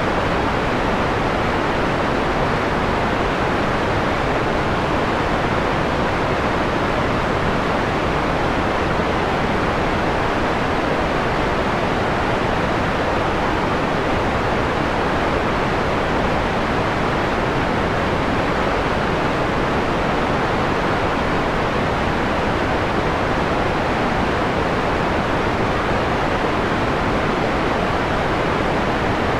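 Steady white noise, filtered so that its top end is dulled to a mellow, darker hiss.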